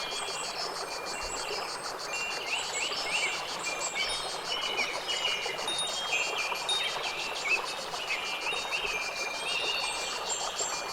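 Nature soundscape: short, clear high tones like chimes mixed with quick bird chirps, over a steady hiss and a fast, even pulsing buzz high up.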